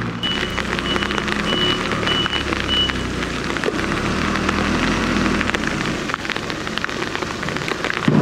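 Steady rain falling on slushy snow and pavement, a continuous hiss with close drops pattering. A vehicle's electronic beeper sounds about twice a second and stops about three seconds in.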